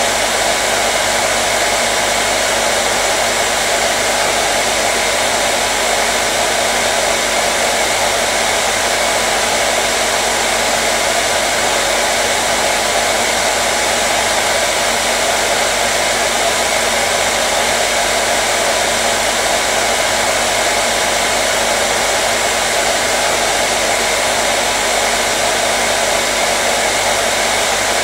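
Hair dryer running steadily on one setting: an even rush of blown air with a faint low hum underneath, never changing.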